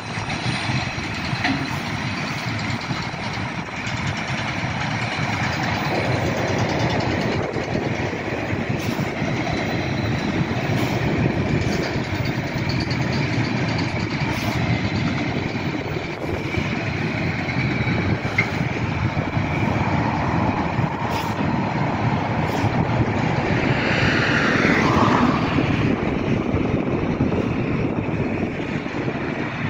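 Freight train hauled by an Sr2 electric locomotive rolling into the station, its wagons rumbling steadily over the rails with a faint steady high squeal. A brief louder screech comes about four-fifths of the way through.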